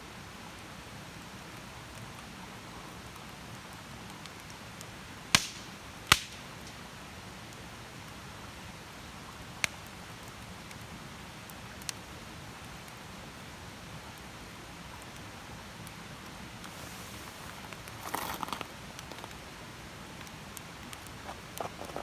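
Wood campfire burning with a low steady hiss and occasional sharp pops: two loud cracks about five and six seconds in, a couple of fainter ones later, and a brief rustling crackle near the end.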